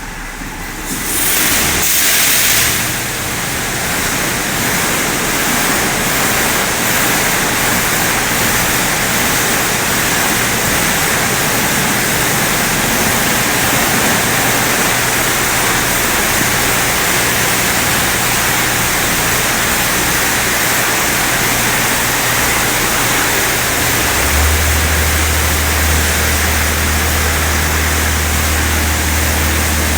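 Touchless automatic car wash running: a steady hiss of high-pressure water spray, louder for a couple of seconds near the start, with a low machine hum coming in near the end.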